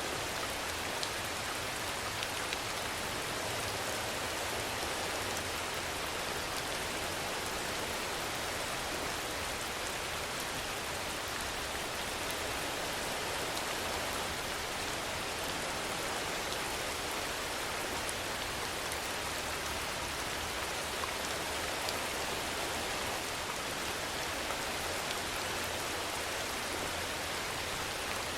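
Steady rainfall, an even hiss with a few faint drop ticks standing out.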